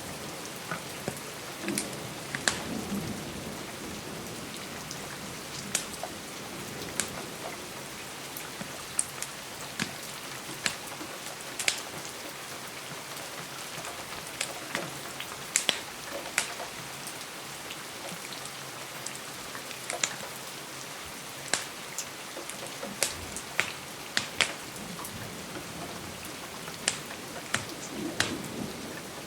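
Steady rain on a window, with the sharp, irregular crackles and pops of a wood fire scattered through it.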